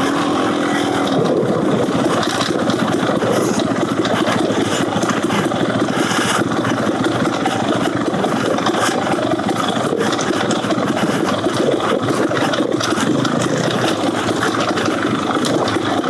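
Beta Xtrainer 300 two-stroke dirt bike engine running with an FMF Gnarly exhaust as the bike is ridden along a trail, with occasional short knocks from the bike over rough ground.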